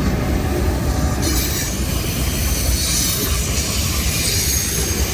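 Freight train rolling past close by: a steady rumble of wheels on the rails, with a high hiss coming in about a second in.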